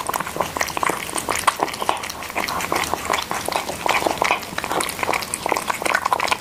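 A cat eating noisily from its bowl: rapid, irregular wet chewing and smacking sounds that cut off suddenly at the end.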